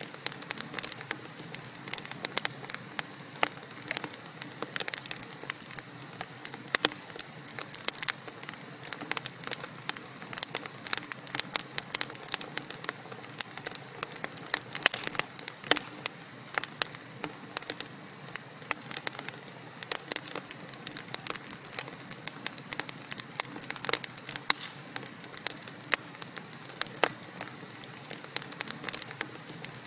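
Wood fire in a fireplace crackling: frequent sharp irregular pops and snaps over a steady soft hiss of burning logs.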